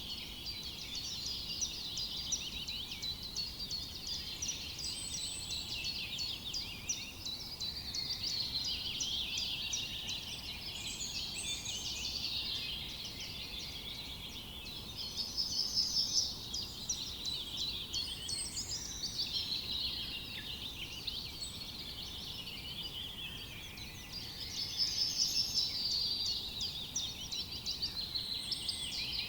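A chorus of many songbirds singing at once, a dense mix of chirps and trills. Louder bursts of fast repeated notes stand out about halfway through and again near the end.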